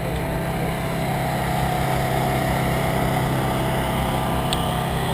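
Steady low mechanical drone, like a motor running, with a faint constant whine above it and one small tick about four and a half seconds in.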